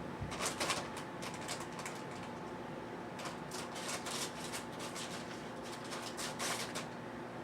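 A plastic microwave steam bag crinkling and rustling in irregular crackles as it is popped open to vent steam.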